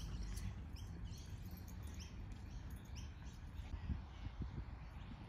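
Small birds chirping, many short high chirps repeating and thinning out toward the end, over a steady low rumble.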